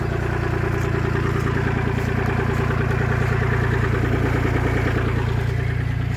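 An engine running steadily at idle: an even, low hum with a fast, regular pulse.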